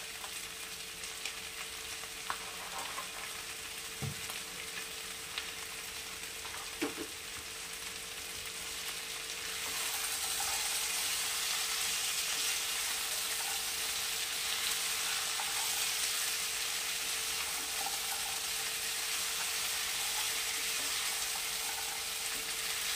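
Mixed vegetables (cauliflower, potato, beans and green peas) frying in oil in a kadai, a steady sizzle stirred with a wooden spatula, with a few light knocks of the spatula early on. The sizzle grows louder about ten seconds in.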